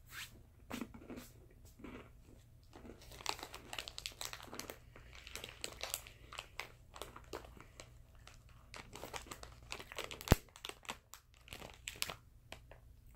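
Crunchy bite-size chocolate chip cookies being chewed and crunched close to the microphone, mixed with crinkling of the plastic snack packet. There is one sharp click about ten seconds in.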